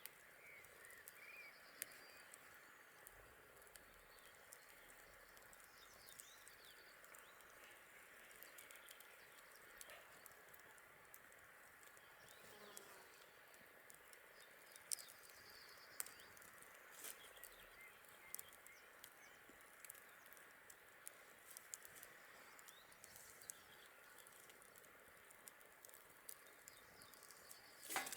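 Faint campfire crackling: scattered sharp pops at irregular intervals, with a louder cluster of pops near the end, and a few faint high chirps in the background.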